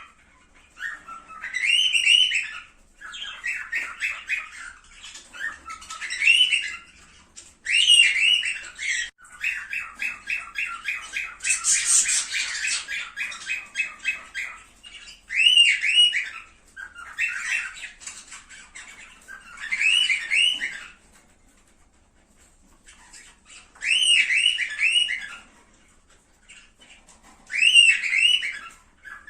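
Cockatiels calling: runs of fast chattering notes alternating with repeated rising, whistled squawks, in phrases broken by short pauses.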